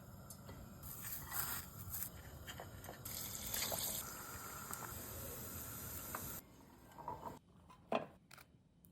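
A steady hiss of liquid that stops abruptly about six seconds in, followed by a few sharp clicks.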